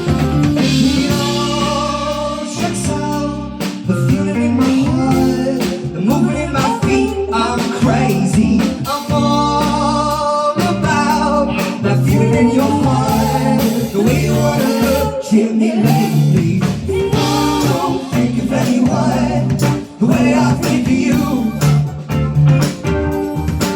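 A live band playing a song with a singer, with guitar and a steady beat.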